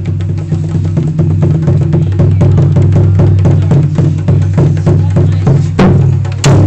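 Percussion music: quick, rhythmic drum strokes over a steady low drone, with two louder hits near the end.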